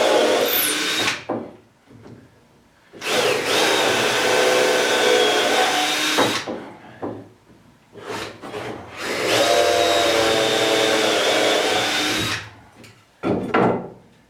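Power drill driving screws into wood, running in three long pulls of about three seconds each with short blips of the trigger between them.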